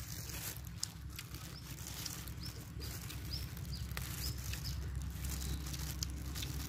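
A small bird chirping, a series of short falling chirps, over a low steady rumble. Faint clicks and rustles come from leaves being handled in plastic gloves.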